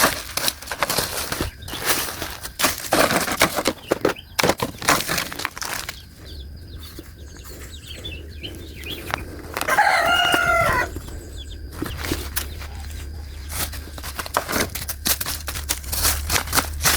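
Rubbish being rummaged through, with crackling and rustling for the first several seconds and again near the end. About ten seconds in, a rooster crows once, for about a second.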